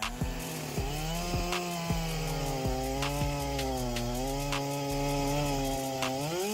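Chainsaw engine running while cutting wood, its pitch wavering under load and rising sharply near the end, with scattered sharp clicks.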